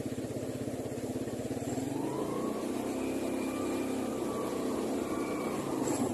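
Motorcycle engine of a motorcycle-and-sidecar tricycle running steadily, then speeding up about two seconds in, holding the higher pitch for a few seconds, and easing back near the end.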